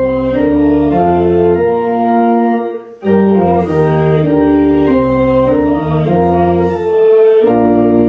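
Church organ playing slow, sustained chords that move step by step, breaking off briefly about three seconds in before the next phrase.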